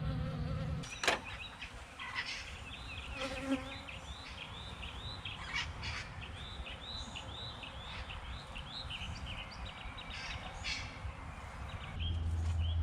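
Honey bees buzzing around an open hive. A high, arched note repeats about twice a second through the middle, and there is a sharp click about a second in.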